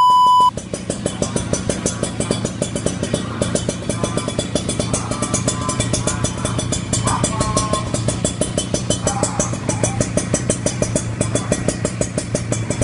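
A short electronic beep, then a Kawasaki Ninja 150 RR's single-cylinder two-stroke engine idling steadily through a stainless-steel aftermarket exhaust, a fast, even pulsing beat.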